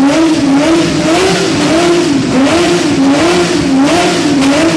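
Ferrari F50's V12 revving hard, the throttle blipped over and over so that the engine note rises and falls in quick repeated waves.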